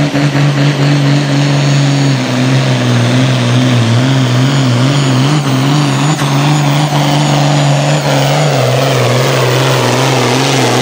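International hot farm pulling tractor's engine at full throttle under load, pulling the sled down the track. The engine holds a steady high pitch that wavers slightly as the load comes on.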